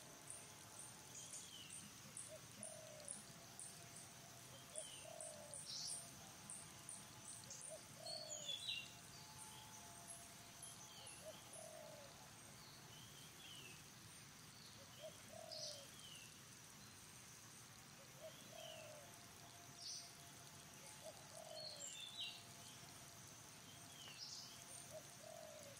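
Faint birdsong: a short, low, falling note repeated every two to three seconds, with scattered higher chirps, over a steady high-pitched drone.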